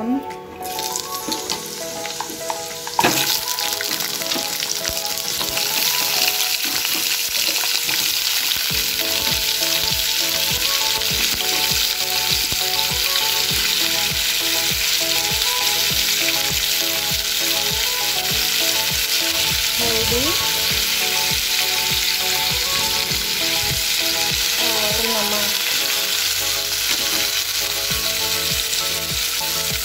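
Raw green mango slices go into hot oil in a kadhai with a sudden burst of sizzling about three seconds in. The oil then keeps up a steady, loud sizzle as the mango fries.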